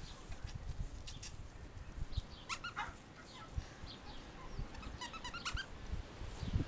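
Pug puppies giving a few high whines, then a quick run of short high yips about five seconds in, over a faint low rumble.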